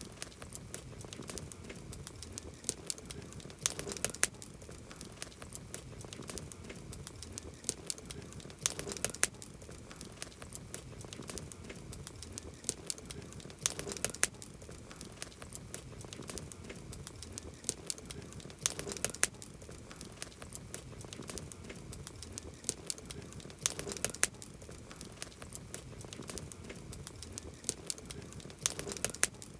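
Campfire burning, wood crackling with many sharp small pops over a soft hiss, and clusters of louder pops about every five seconds.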